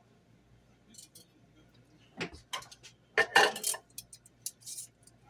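Kitchen utensils clinking and scraping against a cooking pot and glass canning jars while cooked soup is dished into the jars, a few scattered clinks with the loudest cluster a little past the middle.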